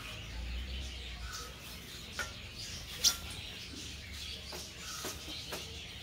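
A small bird giving short, sharp chirps, a few scattered notes with the loudest about three seconds in, over a steady high background hiss.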